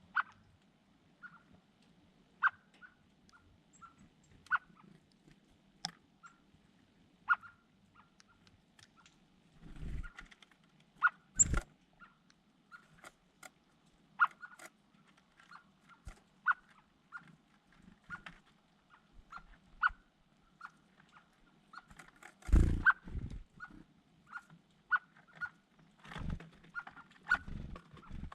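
Small birds giving short, sharp chirps again and again, roughly once a second, over a low steady background hum. A few louder thuds with rustling come about a third of the way in and again past three-quarters.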